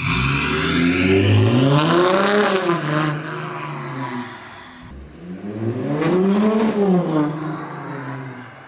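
Straight-piped Audi A5 3.0 TDI V6 diesel exhaust with no silencers, loud, its note rising and falling back twice.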